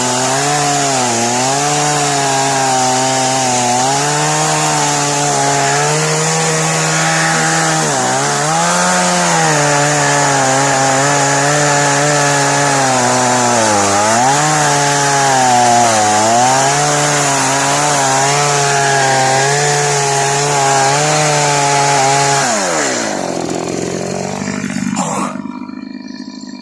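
Chainsaw cutting through felled aspen, its engine pitch dipping and recovering repeatedly as the chain bites into the wood. About 23 seconds in, the engine winds down and the sound drops away.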